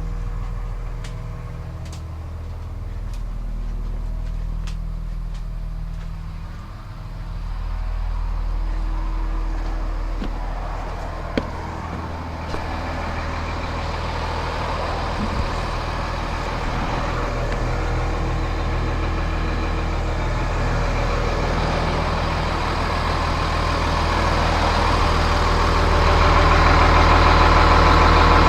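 Cummins ISC 8.3-litre turbo diesel of a 2003 Blue Bird All American school bus idling steadily, getting louder toward the end.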